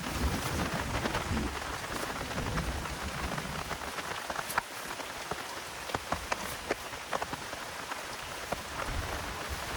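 Steady heavy rain falling, with individual drops striking sharply every so often.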